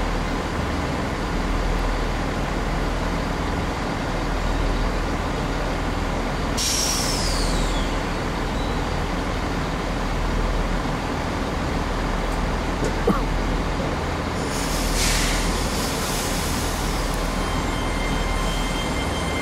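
Passenger trains standing at a station platform: a steady hum and rumble of onboard equipment, with a sharp hiss of released air about a third of the way in whose tone falls away, a short click, and a second air hiss about three-quarters through.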